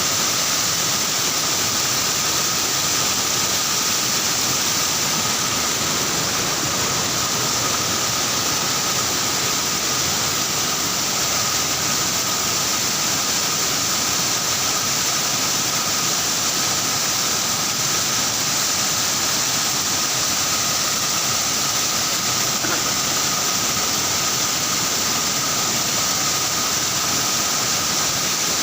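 Loud, steady rush of water with a thin, steady whine above it, unchanging throughout.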